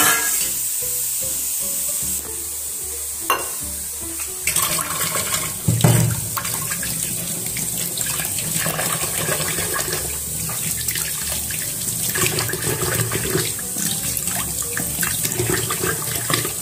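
A few knocks of steel dishes, then, from about four seconds in, tap water running steadily into a stainless steel sink as tomatoes are rinsed under the stream.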